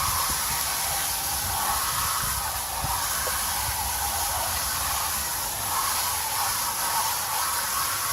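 Steady hiss of a garden hose spraying water through an air-conditioner condenser coil, rinsing out packed cottonwood.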